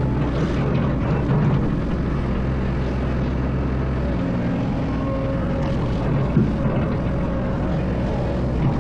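Excavator's diesel engine running steadily with a low drone, its tone shifting slightly about halfway through.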